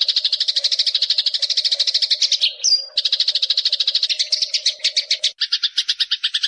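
Eurasian tree sparrows chirping in a rapid, unbroken stream of chirps, about ten a second. A little past five seconds in, the chirps change to a two-part note with an added lower tone.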